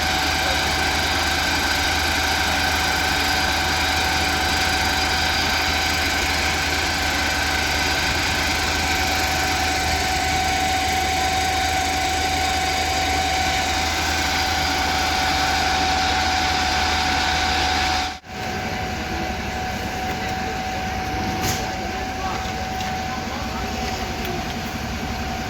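Fire engine's diesel engine idling steadily, with a steady high whine over the engine hum. The sound breaks off for an instant about eighteen seconds in and carries on a little quieter, with a single sharp click a few seconds later.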